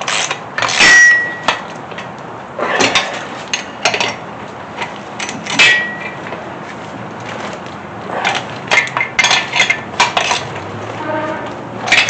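Steel tools and hardware clanking and clinking as the bolts holding an engine block to an engine stand are snugged up with a wrench. There are several sharp metallic knocks, two of them ringing briefly.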